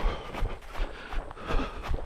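A runner's footsteps on forest ground, a dull thud two to three times a second, over a steady rustle.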